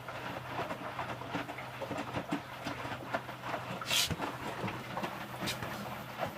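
Electrolux W455H commercial washing machine running its prewash, the drum turning with a steady low hum and irregular clicks and knocks. A short hiss comes about four seconds in.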